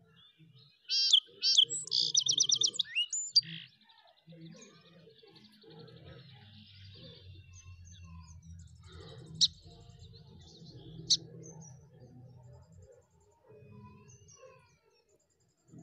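Small birds chirping: a loud burst of high chirps and a rapid trill about a second in, then two single sharp chirps later, over a faint low background rumble.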